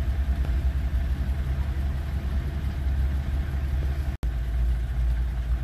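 Car engine idling steadily with a low, even rumble. The sound cuts out for an instant about four seconds in.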